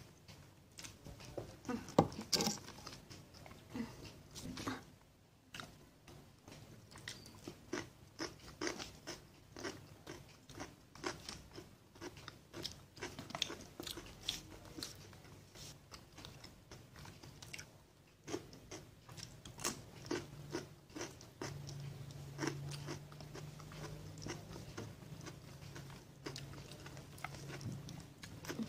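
Close-miked chewing, biting and crunching of a meal of fried tilapia, fried tofu and eggplant with raw cucumber and bok choy, in irregular crisp crunches. A low steady hum joins about three-quarters of the way through.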